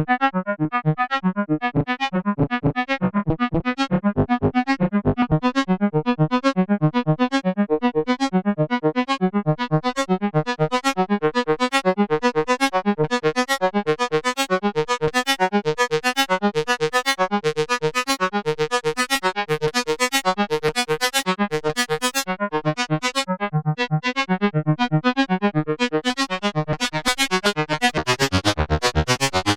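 K-ACCUMULATOR synthesizer oscillator module playing a fast sequenced melody of short, plucky pitched notes, several a second, in its two-operator FM (2OP2) mode. The notes run in repeating upward figures, and the tone grows brighter near the end.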